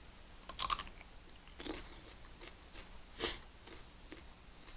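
A person chewing and biting food close to the microphone, with a few short, wet crunching mouth noises, the loudest about three seconds in.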